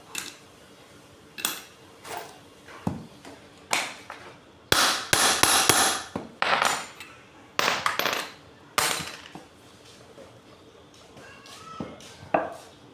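Hammer blows on metal pump parts, struck at an irregular pace with a quick run of knocks about five seconds in and a few more spaced strikes later.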